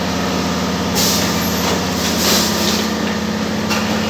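Cup water filling and sealing machine running: a steady motor hum with short hisses of compressed air repeating about every second and a half as it cycles.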